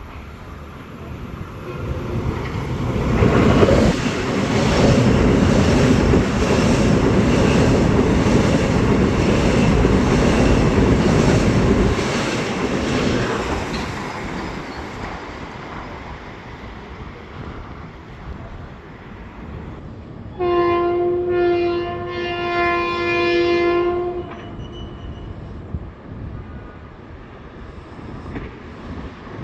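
Long Island Rail Road train passing close by, its wheels clattering over rail joints. It builds up about two seconds in, is loudest from about three to twelve seconds, and then fades. About twenty seconds in, a train horn sounds a chord for about four seconds, with short breaks near its start.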